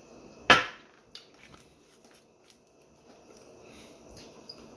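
A single sharp knock about half a second in, followed by a few faint clicks and quiet handling sounds.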